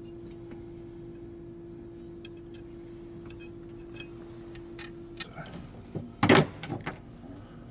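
A steady hum that stops about five seconds in, then light clicks and one loud clunk of metal tools and parts being handled during an alternator and belt installation.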